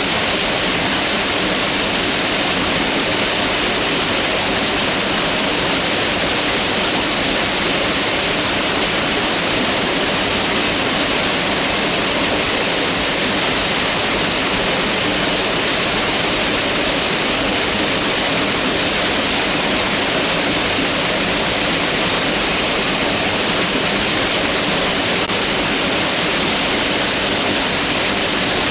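Mountain river rushing over rocks, a steady, unbroken hiss of flowing water.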